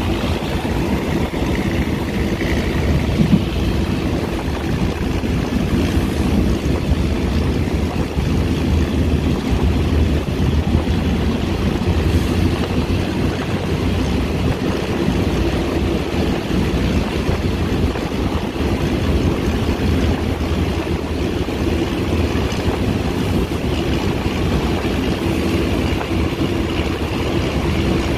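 Steady running noise of a moving passenger train heard inside the carriage: a low rumble from the wheels and the car, with air rushing in through the open window.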